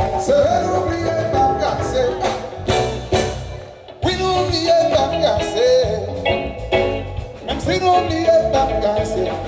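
Live band music: drums keeping a steady beat over a bass line, with a gliding melodic lead line on top.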